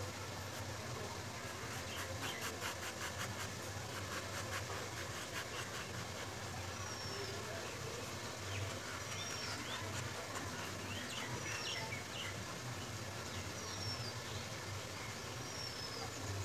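A bird repeating a short, high, falling chirp about every two seconds, five times, after a run of rapid chattering pulses in the first few seconds. A low steady hum runs underneath.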